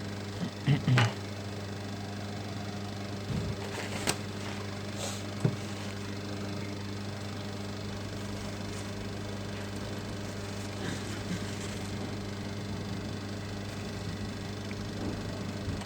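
A steady low electrical hum from workbench equipment, with a few light knocks and clicks in the first six seconds.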